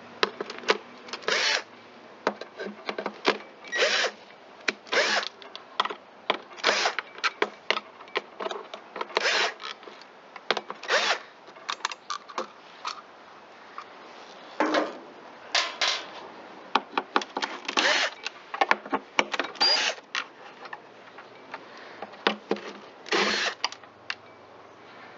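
Power driver spinning in many short, irregular bursts as it backs screws out of the blower's pull-starter housing.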